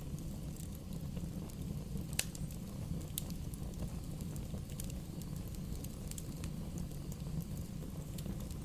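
Wood bonfire burning with a steady low rumble and scattered sharp crackles and pops, the clearest about two seconds in and again a second later.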